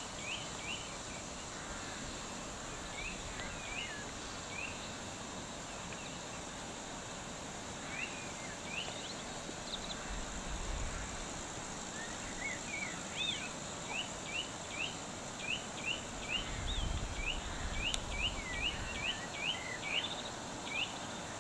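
A small bird calling in series of short, quick rising chirps, a few at a time early on and in a near-continuous run in the second half, over a steady outdoor hiss. Two brief low rumbles come about halfway and about three quarters of the way in.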